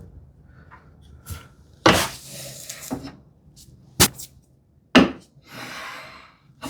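Wood and hand tools handled on a workbench: a few sharp knocks and thuds, two of them followed by a second or so of scraping.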